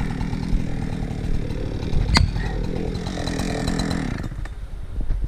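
Chainsaw engine running steadily, then dropping away about four seconds in. A single sharp crack sounds about two seconds in.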